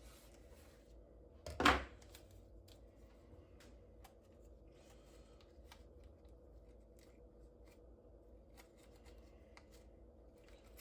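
Scissors snipping and a piece of plastic bag rustling as it is trimmed and handled, in soft scattered clicks, with one louder sudden rustle about a second and a half in. A faint steady hum runs underneath.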